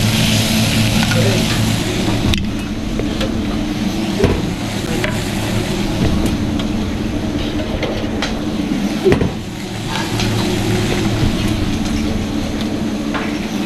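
Duck pieces sizzling on a hot flat-top griddle; the sizzle drops away about two seconds in. A steady low hum then carries on, with a few light knocks.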